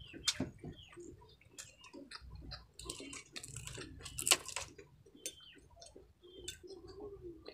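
Close-miked eating of crispy fried baby crabs and rice: irregular crunching and chewing with sharp crackles and clicks, a few of them louder.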